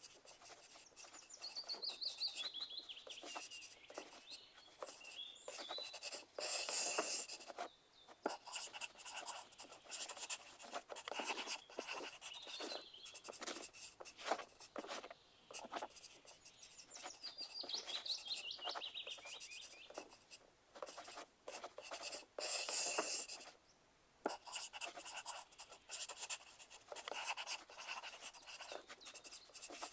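Pencils writing on paper: a continuous, irregular scratching of many short strokes, growing louder for a moment around seven seconds in and again around twenty-three seconds in.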